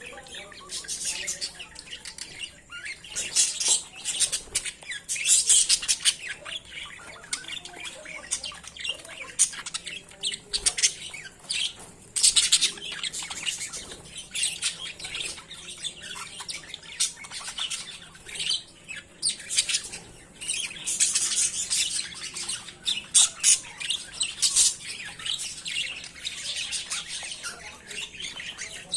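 A flock of budgerigars chattering and squawking without pause, many short high calls overlapping, with louder bursts of squawks now and then.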